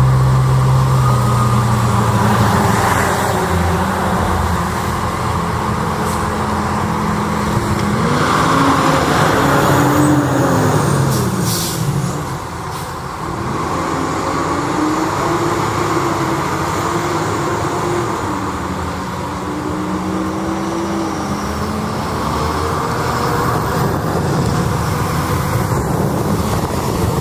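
Fire engine driving on the road, its diesel engine running loudly with traffic noise, the engine pitch stepping up and down and rising and falling as it drives.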